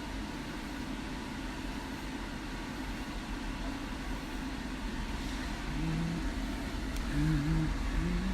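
Steady low background rumble, with a person humming a few short notes in the last few seconds.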